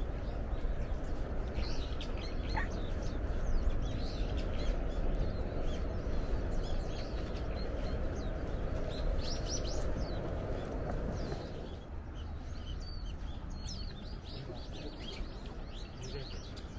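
Small birds chirping and calling in short, curving high notes, over a steady low rumbling noise that eases about twelve seconds in.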